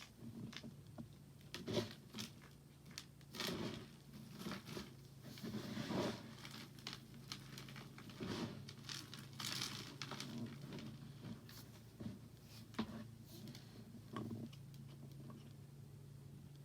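Soap being worked by hand: irregular crackling crunches and soft scraping strokes, spaced unevenly, over a faint steady hum.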